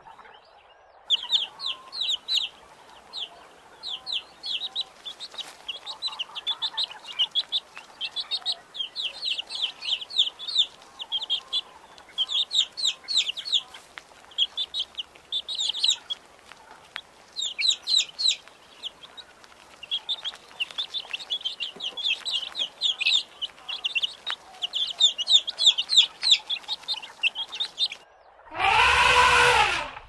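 A brood of quail chicks peeping: fast, high chirps in runs, with hardly a pause. Near the end a loud, low elephant call cuts in.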